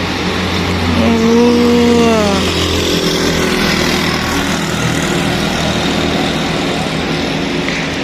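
Loud, steady rushing noise with a low hum under it. Between about 1 and 2.5 s in comes a single drawn-out call that rises and then falls in pitch.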